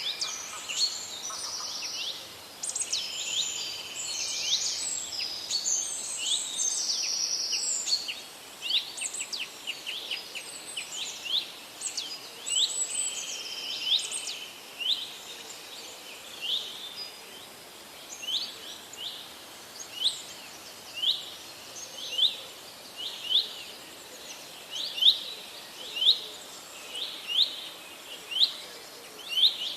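Wild birds singing: several overlapping songs and trills at first, thinning after about eight seconds to one bird repeating a short, sharp sweeping note about once a second, louder toward the end.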